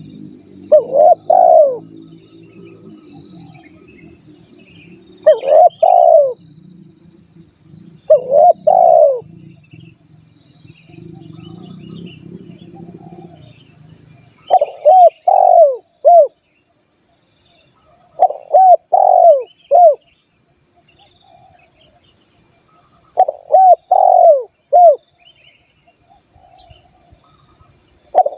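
Spotted dove (tekukur) cooing: short phrases of two to four low, hooting notes repeated every few seconds, used as a lure call for wild doves. A steady high insect-like buzz runs underneath.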